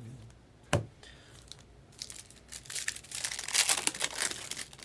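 A trading-card pack wrapper being torn open and crinkled: a sharp click under a second in, then about two seconds of crackly crinkling and tearing.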